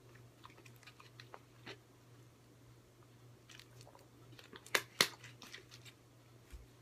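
A person chewing a dark-cocoa-coated almond: scattered crunches, the sharpest cluster about five seconds in, over a faint steady low hum.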